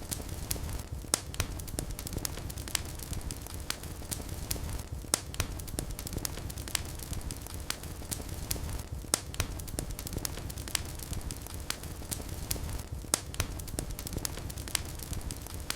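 Wood fire burning in a fireplace: a steady low flame rush with irregular crackles and occasional sharper pops.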